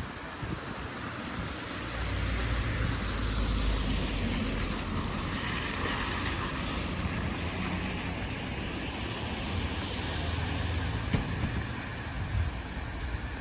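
Street ambience with wind buffeting the microphone and a low rumble; a vehicle passes on a wet road, its hiss swelling a couple of seconds in and fading after about six seconds.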